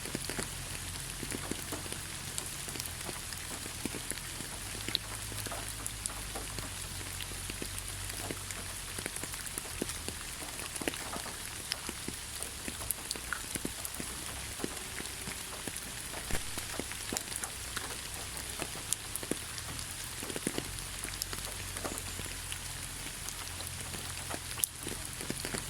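Steady rain falling on a surface, a constant hiss dotted with many sharp single-drop ticks, over a low steady rumble.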